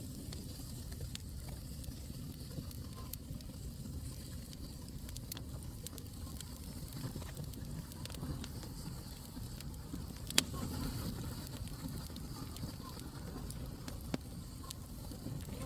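Wood fire burning in a fireplace: a steady low rumble with scattered sharp crackles and pops, the loudest pop about ten seconds in.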